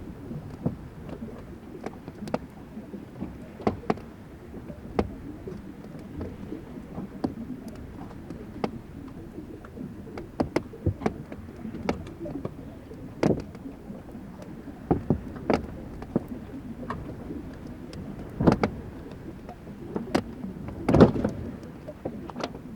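Fláajökull glacier ice melting and cracking: irregular sharp cracks and pops over a steady low rumble, the loudest crack about 21 seconds in.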